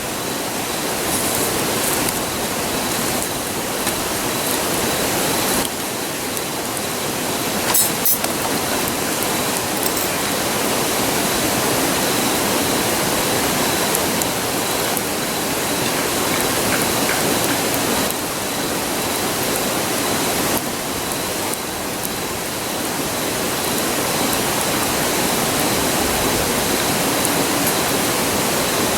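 A river rushing steadily, with a few pops and crackles from the campfire, the sharpest about eight seconds in.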